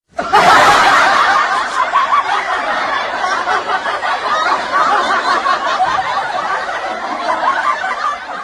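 Crowd of many people laughing together, a stock audience-laughter effect. It starts abruptly just after the beginning, is loudest at first and eases off a little.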